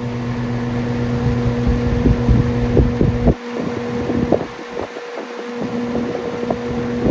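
Air conditioning unit running with a steady electrical hum. Irregular knocks and wind rumble on the microphone come with it; the rumble drops away about three seconds in.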